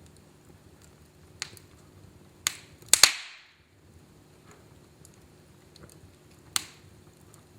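Fireplace fire crackling, with a few sharp pops over a low steady hum. The loudest is a double pop with a short hiss about three seconds in; smaller pops come just before it and near the end.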